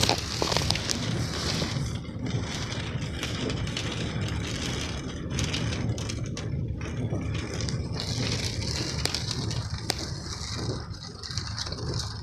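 Rain pattering on a truck's roof and windshield, heard from inside the cab: a steady hiss of many small ticks over a low, steady rumble.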